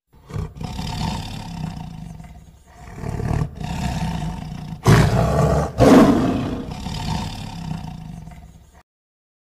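Tiger roaring in a run of calls, the two loudest about five and six seconds in; the sound cuts off abruptly near the end.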